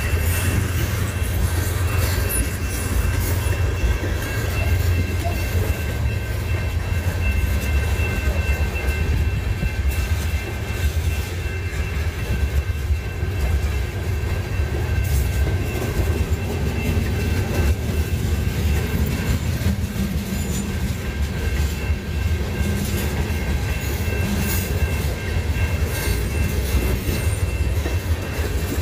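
Freight train rolling past: a steady low rumble of wheels on rail, with faint steady high-pitched tones over it.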